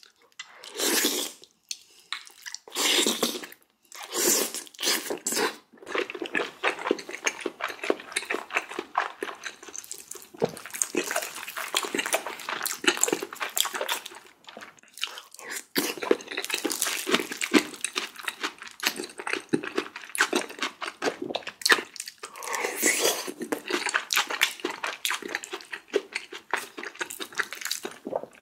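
Close-miked eating: a person chewing and crunching mouthfuls of food, with a dense run of wet mouth clicks. A few separate loud mouthfuls come in the first five seconds, then the chewing runs on almost without pause.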